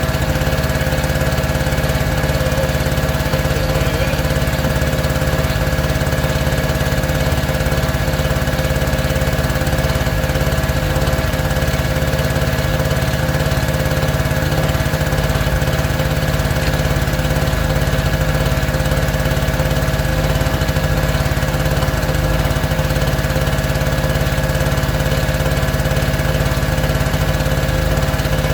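A small engine running steadily at a constant speed, with an unchanging drone.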